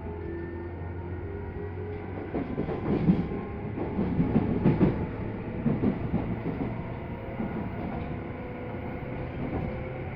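Tobu 10030-series electric commuter train heard from inside the car while running: a steady low hum of motors and running gear with wheel rumble. Heavier irregular knocks of the wheels over the track come in the middle.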